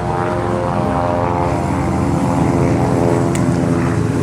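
NASCAR stock car's V8 engine running at steady, nearly unchanging revs.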